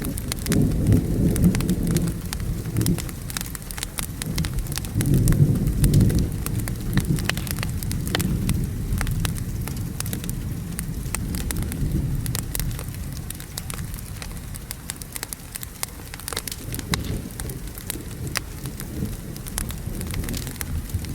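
Wood fire crackling with sharp pops over steady rain, while thunder rolls low, swelling about a second in and again more strongly around five to six seconds in before fading to a softer rumble.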